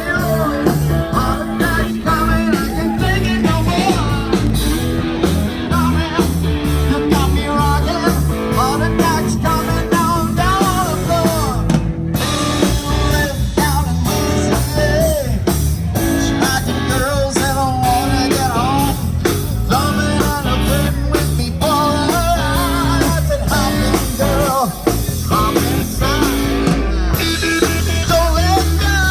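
Rock-and-roll music played by a band: a singer over electric guitar and a drum kit, with a steady beat.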